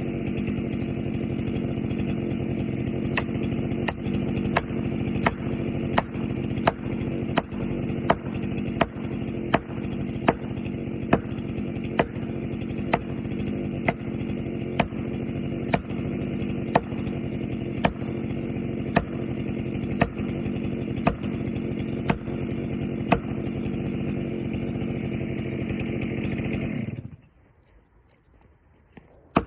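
Gas chainsaw running at a steady speed, with a sharp click repeating about one and a half times a second. The engine cuts off suddenly near the end.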